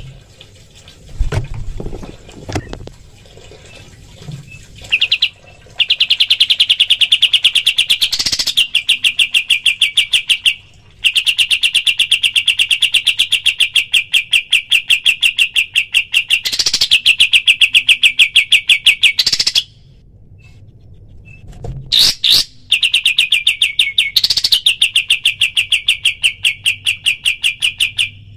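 Kapas tembak songbird singing its fast 'tembakan' song: long rattling trills of rapidly repeated high notes, several seconds each, broken by brief upward-sweeping whistles. A few low thuds come in the first few seconds.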